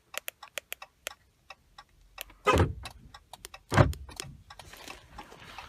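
A run of quick, light clicks, then two solid thunks from the pickup's power door locks, about two and a half and four seconds in, as the newly programmed key fob's lock and unlock buttons are tested.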